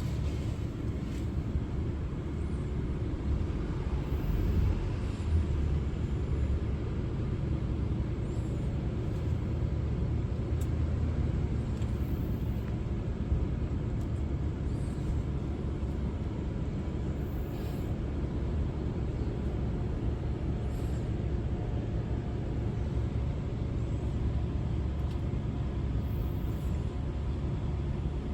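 Steady low background rumble with no distinct events, swelling slightly now and then.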